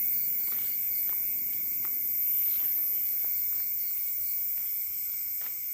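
Night insects such as crickets chirring steadily in several high pitches at once, with a few faint ticks.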